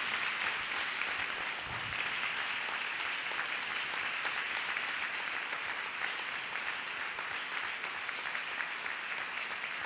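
A congregation applauding, a dense, steady clapping that slowly fades.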